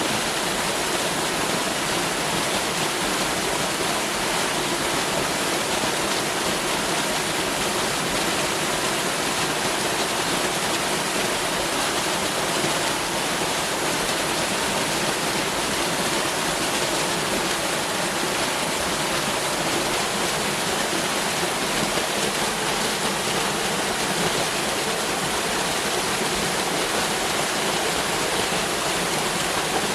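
Waterfall: water pouring and splashing in a steady, unbroken rush, spread evenly from low to high pitch.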